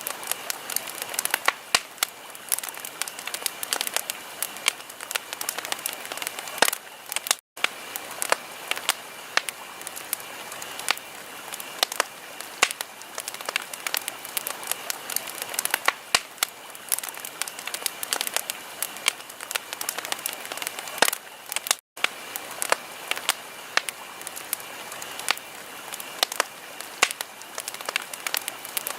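Wood fire crackling: frequent irregular sharp pops and snaps over a steady soft hiss. The sound cuts out completely for an instant twice.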